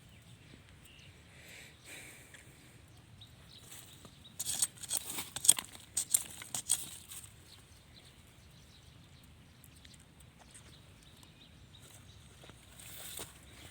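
Dry leaf litter and twigs rustling and crackling in short bursts, most of them from about four to seven seconds in and a few more near the end.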